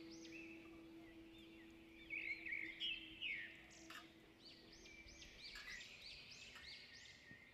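Small birds chirping outdoors, a busy run of short, quick rising-and-falling calls overlapping one another, loudest a couple of seconds in. A faint held tone fades out in the first half.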